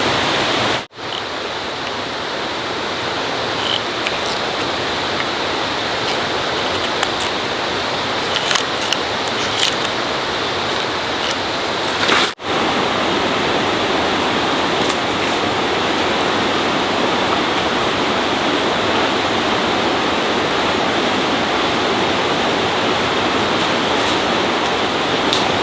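Steady rush of running water. The sound drops out abruptly about a second in and again about twelve seconds in, and a few faint ticks come through around eight to ten seconds.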